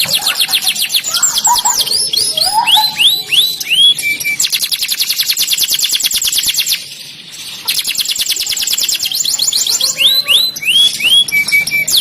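Domestic canary singing a long song of fast rolling trills and series of high notes that sweep downward in pitch, with a brief break about seven seconds in before the rolls start again.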